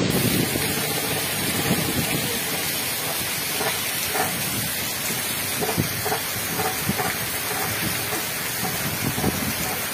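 Heavy rain pouring onto a flooded street and pavement, a steady hiss with uneven low rumbles throughout.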